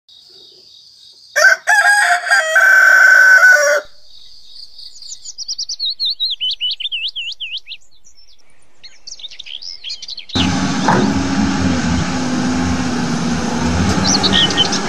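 A rooster crows once, a loud drawn-out cock-a-doodle-doo lasting about two and a half seconds. Then a small bird sings in quick, rising and falling chirps. About ten seconds in, a loud steady wash of noise with a low hum takes over.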